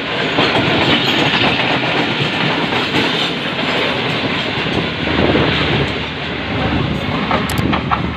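Two passenger trains passing each other at speed on adjacent tracks, heard from the open door of one coach: a loud, steady rumble with clickety-clack of wheels over rail joints. The other train's last coach clears near the end.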